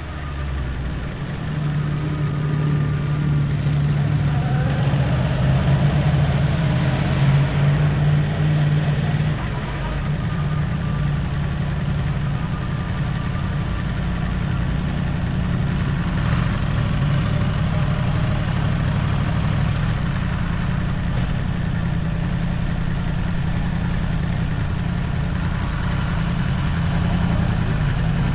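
Motorcycle engine running at low, steady revs, with no hard acceleration.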